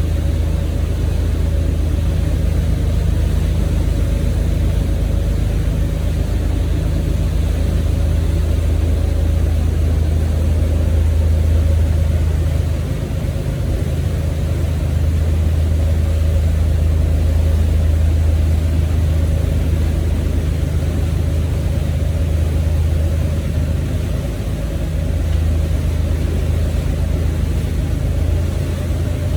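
A motorboat's engines running steadily under way, a loud low drone with a steady hum above it; the drone eases briefly about halfway through and again a little later.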